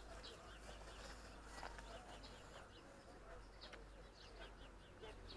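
Faint birdsong: scattered short, high chirps over a quiet, steady background.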